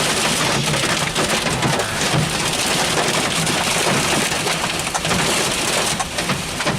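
Dime-sized hail pelting a GMC Sierra pickup truck, heard from inside the cab: a loud, dense clatter of countless small impacts on the roof and windshield that starts suddenly.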